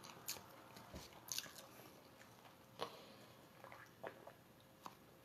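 Faint wet mouth clicks and smacks of someone chewing a sandwich, then swallowing while drinking from a can, a soft click about every second.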